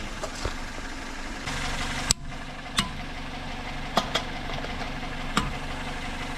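Car engine idling steadily, with a handful of sharp clicks or knocks at irregular intervals over the hum; in this context it is an abnormal noise under investigation.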